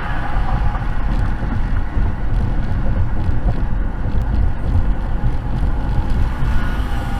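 Steady low rumble of a road vehicle on the move, with wind and road noise on the microphone and a faint engine tone.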